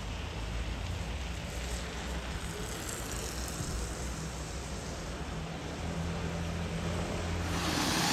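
Street traffic with a steady low engine hum, and a vehicle growing louder near the end as it approaches.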